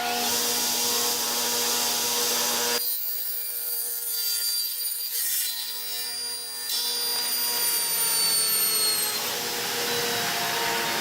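Electric saw running and cutting through a wooden board. Its motor whine is steady at first, then slides down in pitch in the second half as the blade slows.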